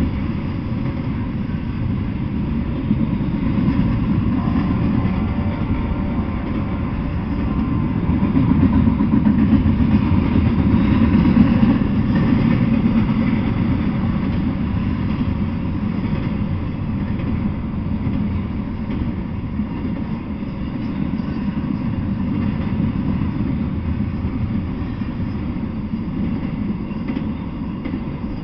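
Double-stack intermodal freight train rolling past: a steady, loud rumble of the cars' wheels on the rails. It grows a little louder about a third of the way through, then eases back.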